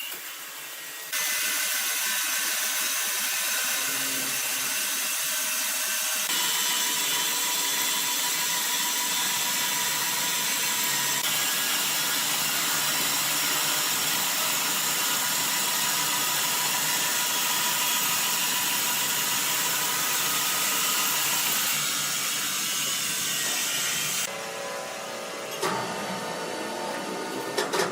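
Sawmill saw and machinery running, a steady high, hissing noise with a faint whine in it, as timber is sawn. It starts about a second in and drops away near the end.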